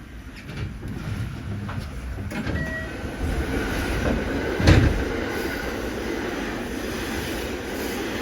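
Train running on rails, its rumble building over the first few seconds, with a single loud thump about halfway through, then a steady running noise.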